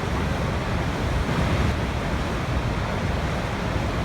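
Waterfall: a steady, unbroken rush of falling water with a heavy low rumble.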